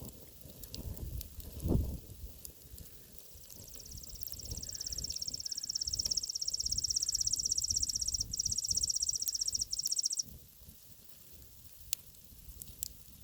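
An insect's high, buzzing trill that swells over several seconds and cuts off suddenly, over the faint crackle of a campfire, with a short low thump about two seconds in.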